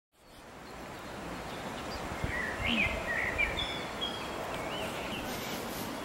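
Small birds chirping and whistling in short calls over a steady rushing background noise that fades in at the start.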